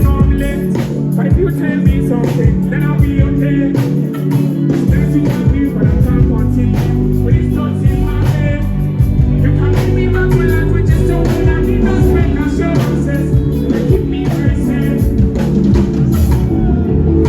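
Loud live band music: a drum kit hitting steadily over sustained bass and guitar, with singing.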